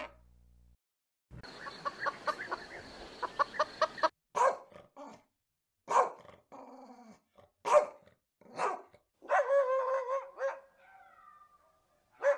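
A dog barking: a quick run of short yelps, then single barks every second or so, and one longer wavering whine-howl near the end.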